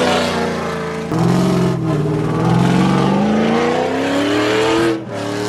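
Truck engine revving hard, its pitch dipping about a second in and then climbing steadily for about four seconds before dropping off near the end.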